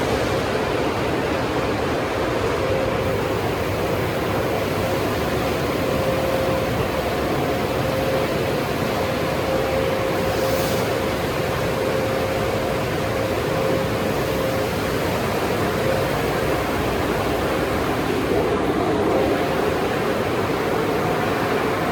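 Car wash tunnel equipment running: a steady rush of spraying water and machinery, with a constant mid-pitched hum over it.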